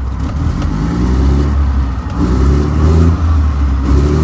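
Mack MR688S truck's diesel engine revved several times in short blips over its steady low running note; its exhaust manifold is reported to be cracked.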